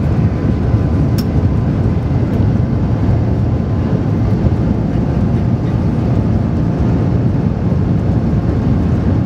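Steady low rumble of a high-speed train running at speed, heard from inside the passenger car, with one light click about a second in.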